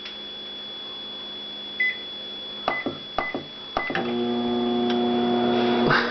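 Microwave oven keypad beeping four times as it is set, then the oven starting up about four seconds in and running with a steady hum.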